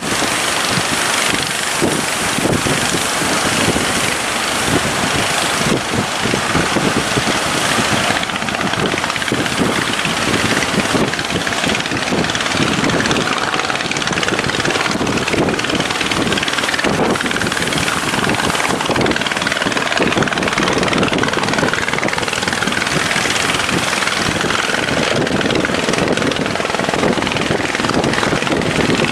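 Engines of fishing boats running hard as they head out through the surf, a steady loud chopping drone mixed with the noise of the waves.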